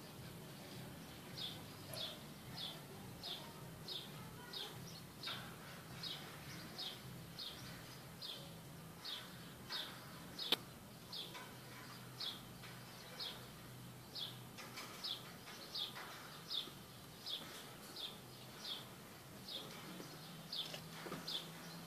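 A bird repeats a short, high, falling call note about one and a half times a second. A faint low hum runs underneath, and there is one sharp click about halfway through.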